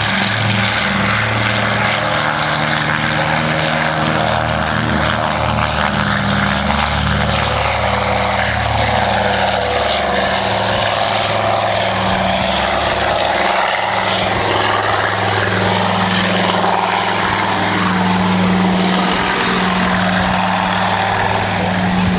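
A Consolidated PBY Catalina flying boat's twin radial engines and propellers running at high power after the throttles are advanced, a loud, steady drone.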